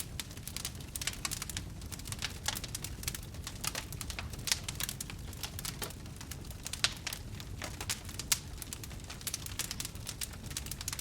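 Wood fire crackling: many small irregular pops and snaps over a low steady rumble, with a few louder snaps about four and a half, seven and eight and a half seconds in.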